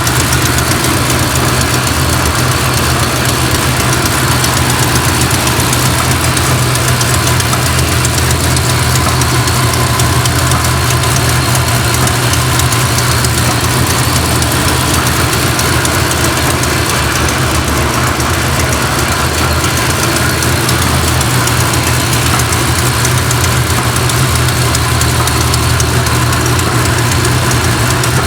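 Ford 5.4-litre supercharged V8 from a 2010 Mustang GT500, idling steadily with no revving.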